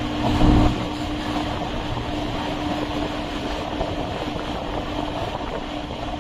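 Electric suburban train running along the track: a steady rumble with a steady hum. There is a louder low thud about half a second in.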